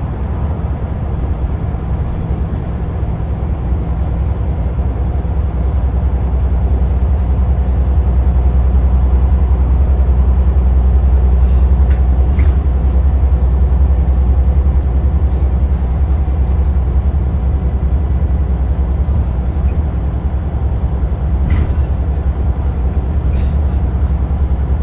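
Scania L94UA Wright Solar Fusion articulated bus's diesel engine running with a steady, loud low rumble that builds to its loudest about halfway through and then eases slightly. A few brief clicks sound near the middle and near the end.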